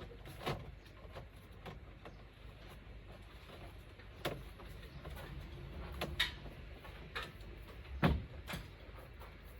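A few separate sharp knocks and clatters from hands-on installation work, spread out over several seconds, over a low rumble.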